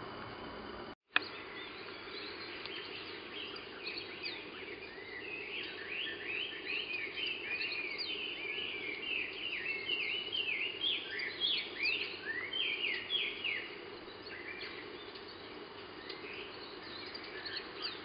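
Long-tailed tit calling: a string of short, thin, high chirps that thicken into a quick, dense run for several seconds, then thin out. A brief dropout and sharp click about a second in.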